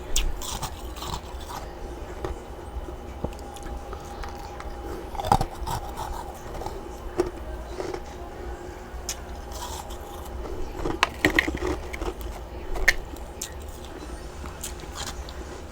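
A person biting and chewing chunks of freezer frost, with irregular crunches and louder bites about 5 s in and again between about 11 and 13 s, over a steady low hum.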